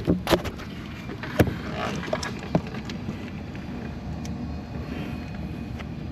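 Hand work on the engine as the bottom cover comes off: a handful of sharp clicks and knocks of parts and tools in the first few seconds, the loudest about a second and a half in, then a steady low background hum.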